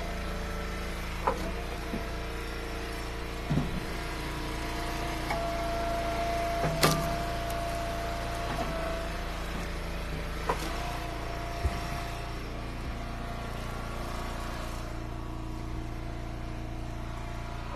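Engine-driven hydraulic log splitter running steadily, its pitch holding a strained tone for a few seconds at a time as the wedge works through a firewood round. Several sharp cracks and knocks come from splitting wood and pieces landing, the loudest about seven seconds in.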